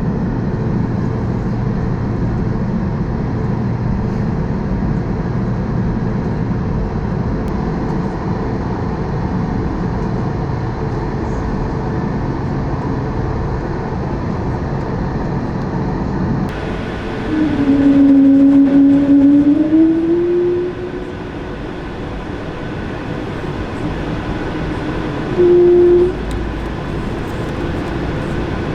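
Airbus A220-300 cabin noise while taxiing: a steady hum from its Pratt & Whitney geared turbofan engines. Partway through the sound changes abruptly, and a louder whine rises in pitch for about three seconds. A shorter tone comes near the end.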